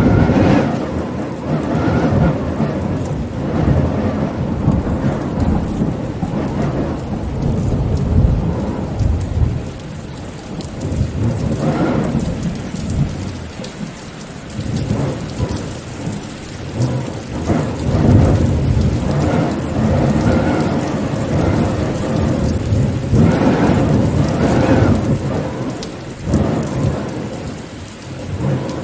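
Steady rain falling, with deep rolling thunder that swells and fades in waves every few seconds.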